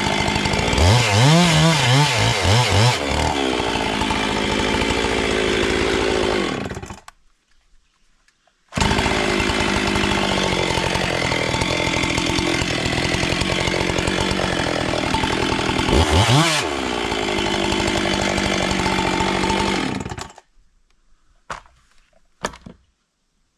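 Gasoline chainsaw running at high revs, its pitch dipping and recovering a couple of times. It cuts out about seven seconds in, starts again about two seconds later, and stops near the end, followed by a few light clicks.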